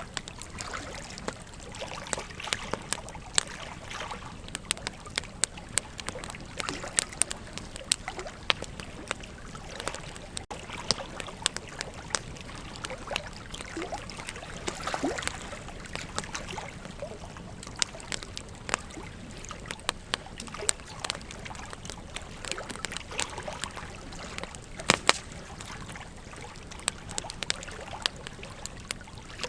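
Wood campfire crackling, with frequent sharp pops and snaps at irregular intervals, over a steady rush of flowing river water.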